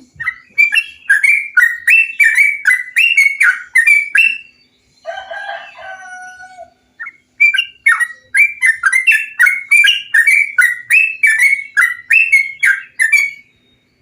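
Bulbul song of the kind kept as trucukan: two long runs of quick, bubbling notes, about three a second, with a harsher, lower chattering call between them. It is a recording used to stimulate caged birds into song.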